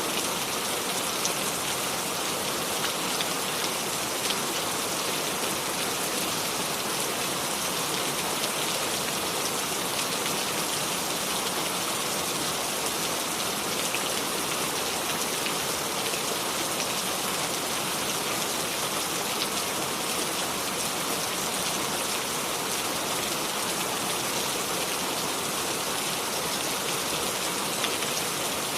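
Steady rain falling, an even hiss with scattered individual drops ticking, without thunder.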